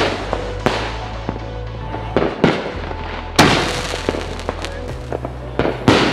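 Consumer fireworks going off in a series of sharp bangs and crackles, the loudest about three and a half seconds in, over a steady music bed.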